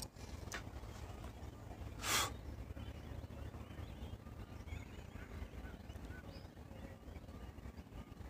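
Faint chirping of small birds over a steady low rumble, with one short loud rustle about two seconds in.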